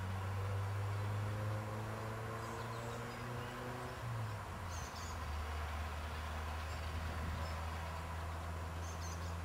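Distant train approaching, heard as a low steady drone with faint engine tones that rise slowly in pitch over the first few seconds. Brief bird chirps come about halfway and near the end.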